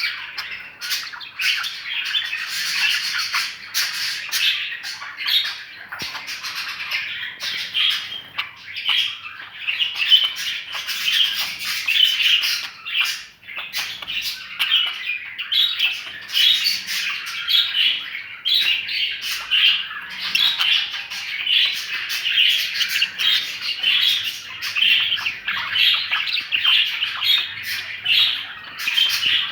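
Pet budgerigars (budgies) chattering and squawking continuously, a dense stream of short, rapid calls.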